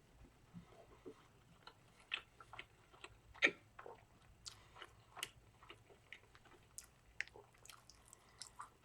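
A person chewing a mouthful of a soft sausage, egg and biscuit sandwich, with faint, irregular wet mouth clicks; one louder click comes about three and a half seconds in.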